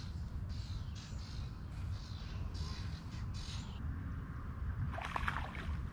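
A bird calling repeatedly, about six short, rough calls in the first few seconds. Near the end a fish splashes at the surface of the pond.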